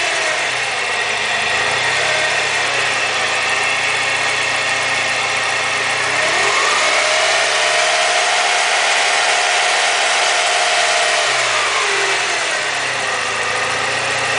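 BMW E36's M42 1.8-litre four-cylinder twin-cam engine running with a freshly replaced timing chain: idling, then revved up about six seconds in, held at higher revs for some four seconds, and dropping back to idle near the end.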